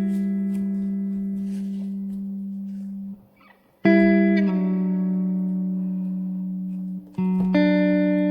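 Background music: slow guitar chords, a new chord struck every three to four seconds and left to ring out and fade.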